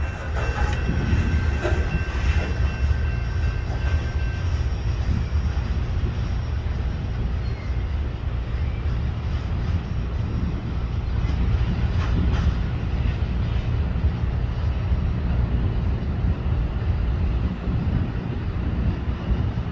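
Freight cars of a long CSX mixed freight train rolling past, with a steady low rumble of wheels on rail. A faint high wheel squeal rings through the first few seconds, then fades.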